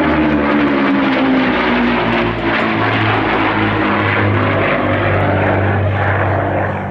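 Two Rolls-Royce Merlin V12 engines of a de Havilland Mosquito passing in flight. The engine note falls in pitch over the first couple of seconds as it goes by, then settles into a steady low drone.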